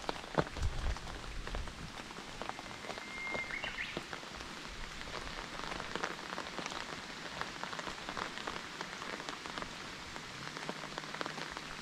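Steady rain falling, with many scattered sharp drop ticks. A brief high tone sounds about three seconds in.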